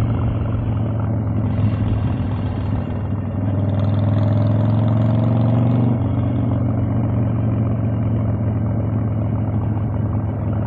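Harley-Davidson Evolution V-twin motorcycle engine running under way. About three seconds in it pulls harder, its pitch rising slightly, then it drops back abruptly near six seconds in to a steady lower run.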